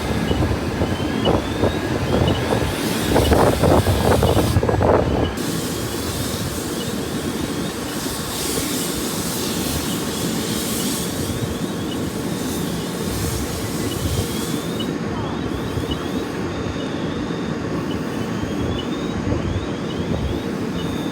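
A vehicle engine running steadily, louder and rougher over the first five seconds, then settling to an even rumble.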